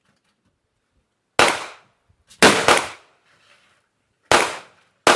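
Gunshots from a firearm: five sharp cracks at an uneven pace, two of them in quick succession about two and a half seconds in. Each crack has a short decaying tail.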